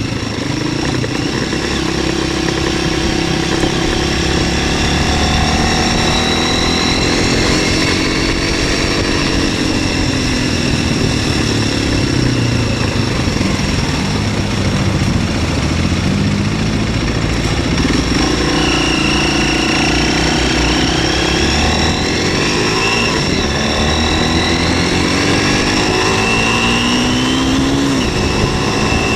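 MZ 125 SX scrambler's 125 cc single-cylinder four-stroke engine running under way, its revs rising and falling repeatedly. Wind rushes over the onboard microphone throughout.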